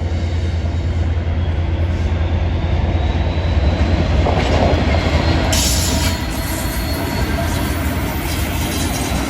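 A train running through a station with a steady low rumble and rail noise. A high hiss joins in about halfway through.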